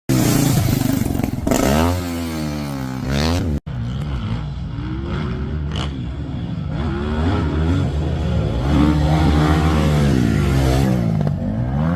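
Dirt bike engine revving as it is ridden, its pitch repeatedly climbing and then dropping back. The sound cuts out for a moment about three and a half seconds in.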